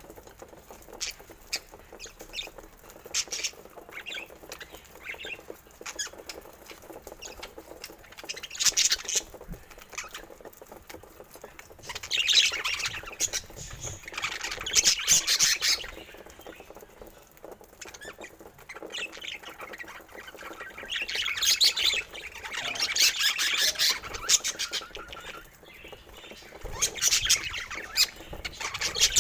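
Budgerigars chattering and warbling in bouts a few seconds long, with short chirps and clicks between the bouts.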